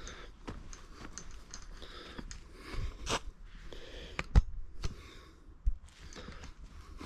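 Footsteps walking at a steady pace along a path, each step a short crunch, with two louder low thumps a little past the middle.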